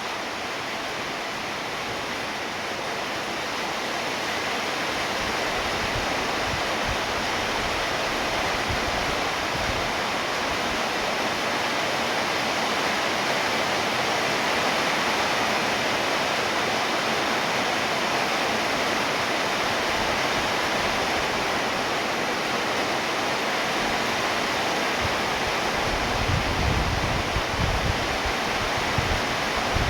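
Heavy rain falling in a steady rush, growing a little louder over the first few seconds. Irregular low rumbles come in near the end.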